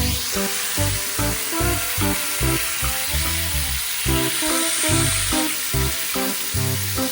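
Food sizzling steadily as it fries in an automatic rotating frying pan, under background music with a steady beat.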